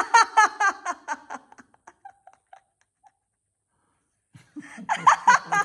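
Laughter in a quick run of 'ha-ha' pulses, fading out after about a second and a half. After a pause of a few seconds, a second burst of laughter comes near the end.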